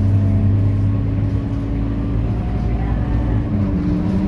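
Scania K230UB city bus's diesel engine running steadily with a low drone; near the end its pitch shifts and then begins to rise slowly.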